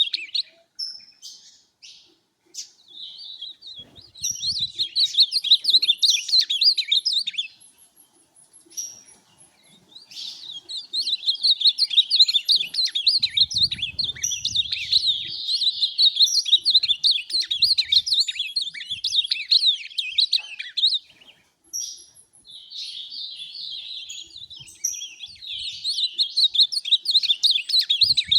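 Ultramarine grosbeak (azulão) singing: fast, warbling song phrases repeated in long bouts, with short pauses between them.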